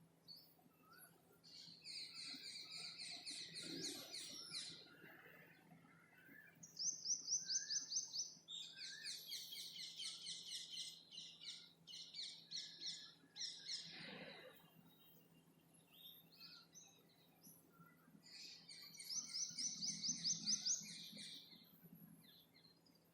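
Songbird singing rapid, high trills of quickly repeated notes in phrases a few seconds long, three main bouts with short calls in between.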